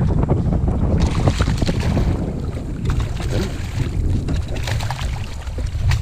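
Wind buffeting the microphone in a low rumble, with choppy water splashing and lapping against the kayak.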